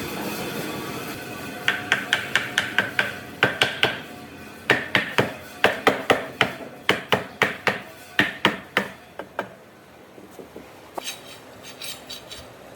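Hammer striking rapidly, about five blows a second, each with a short metallic ring. The blows come in two runs with a brief pause between, then fade to a few light taps and a short rattle. A steady machine noise stops just before the first blows.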